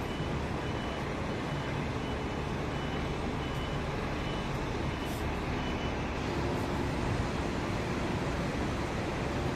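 Steady low rumble of street traffic, with a faint, high, broken beeping tone through roughly the first six seconds.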